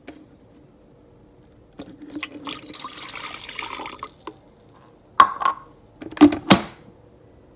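Water running for about two seconds during the descaling of an electric kettle, then three sharp knocks, the last two close together.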